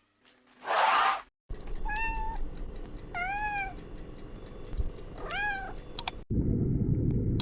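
Domestic cat meowing three times, each call rising and falling in pitch, over a steady low background noise. A short noisy burst from a different clip comes about a second in.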